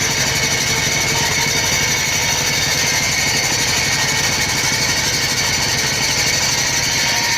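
Stainless-steel grinding machine running steadily, with a fast even pulsing and a steady high whine.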